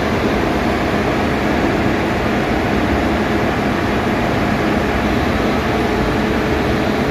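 Steady, loud machinery noise of a ship's engine room, with a few faint steady hums.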